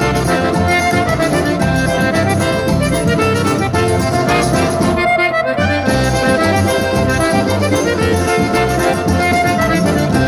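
Accordion-led forró music played instrumentally, with a steady bass beat.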